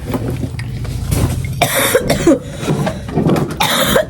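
A person coughing: harsh coughs about one and a half seconds in and again near the end, over a steady low hum.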